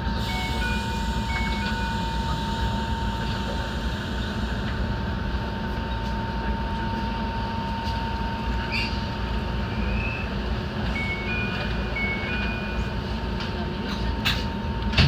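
Enoshima Electric Railway (Enoden) train running, heard from inside the car: a steady low rumble with a thin constant whine, and a few sharp clicks, the loudest near the end. Short stepped two-pitch tones sound briefly near the start and again about 11 seconds in.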